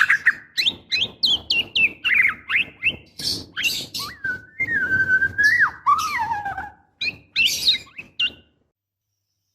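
Female white-rumped shama calling: a quick run of short chirps and sharp slurred notes, with a held whistle about halfway through that slides down at its end. It is the call a female in breeding condition uses to draw a male. The calling stops abruptly about eight and a half seconds in.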